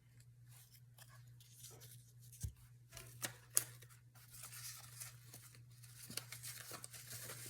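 Paper scraps rustling and shuffling as they are sorted through by hand, with a few sharp taps, the loudest about three and a half seconds in, over a steady low hum.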